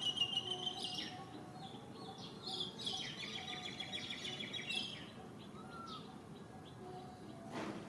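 High-pitched chirping animal calls in two bouts: one near the start and a longer run from about two and a half to five seconds in.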